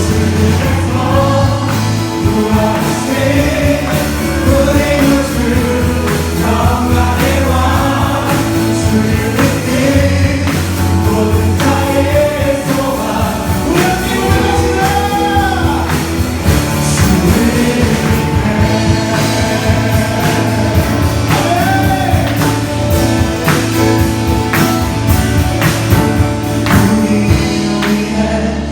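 A worship praise team singing a Christian praise song with a live band. Several voices carry the melody over a steady bass line, and the drums keep a regular beat.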